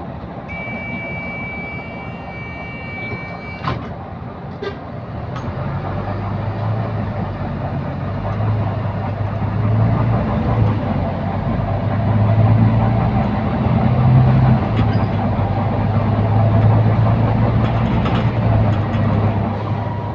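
Bus interior: a steady high electronic tone lasts about three seconds, followed by a few sharp clicks. The bus's diesel engine then builds up and runs under load as the bus pulls away.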